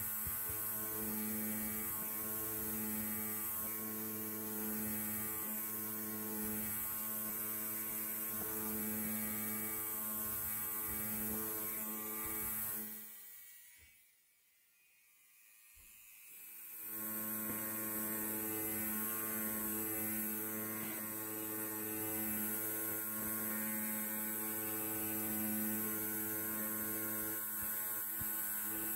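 Electric hair clipper running with a steady buzz. About halfway through it fades out almost to nothing, then fades back in a few seconds later and runs on steadily.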